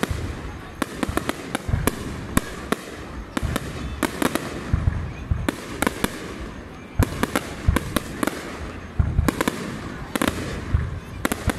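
Aerial fireworks display going off: a rapid, irregular string of sharp bangs and crackles from shells bursting overhead, with deeper booms every second or two.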